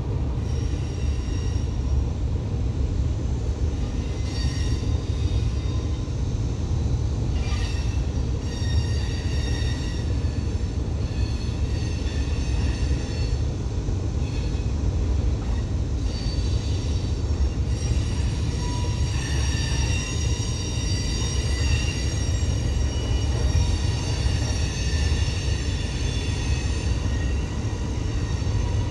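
Freight train rolling by with a steady low rumble, its wheels squealing in high, shifting tones that come and go and grow stronger about two-thirds of the way through.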